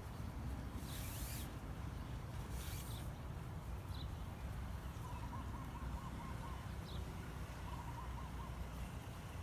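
Outdoor waterside ambience: a bird calling in short rapid trills twice, with scattered high chirps, over a steady low rumble.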